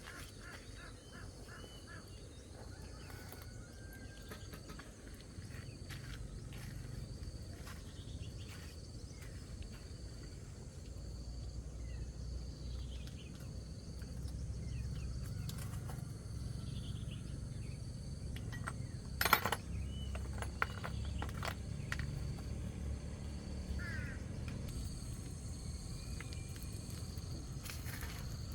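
Outdoor rural ambience: scattered bird calls and a steady insect drone over a low hum, with one sharp knock about two-thirds of the way through.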